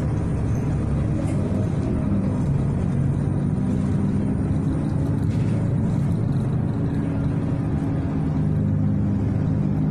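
City bus engine running with road noise, heard from inside the passenger cabin; the low engine note shifts a little in pitch as the bus drives.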